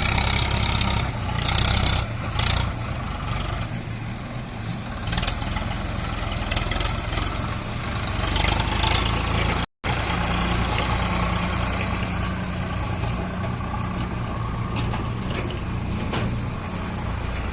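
Heavy diesel engine of a tractor-and-backhoe work site running steadily, with bursts of hiss in the first few seconds. The sound drops out for a moment near the middle, then the engine carries on at a steady pitch.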